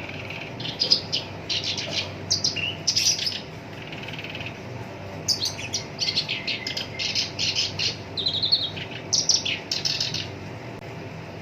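Black-browed reed warbler singing rough, rapid chattering phrases in two bouts, the first starting about a second in and the second from about five seconds in, over a steady low hum.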